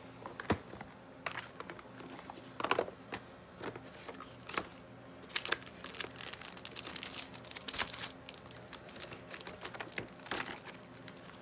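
Rummaging through a box of craft stamps and packaging: an irregular run of small clicks and taps with crinkling, busiest in the middle.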